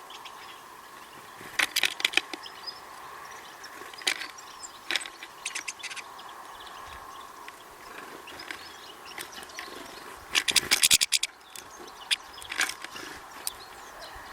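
Birds at a feeder: clusters of quick sharp taps and scratches, like beaks pecking seed and claws on the feeder, with the loudest rapid cluster about ten seconds in.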